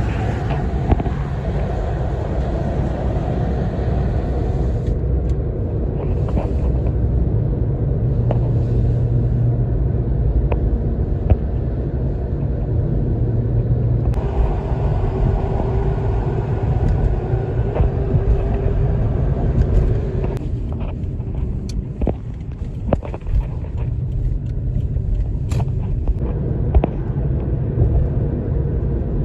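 Steady low rumble of vehicles driving on a highway: road and engine drone with a few faint ticks.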